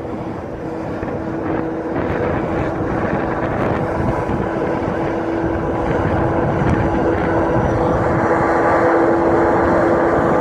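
An 82 class diesel-electric locomotive's engine running under power as it approaches, with a steady droning tone over a rumble that grows louder.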